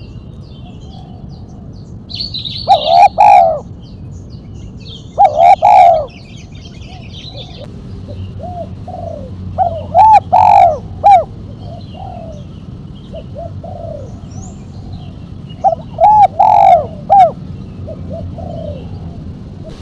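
Spotted dove (tekukur) cooing: four phrases of a few arched coo notes, spaced a few seconds apart, in the 'mercik' voice with a sharp single final 'kuk'. Faint high chirps of small birds in the background.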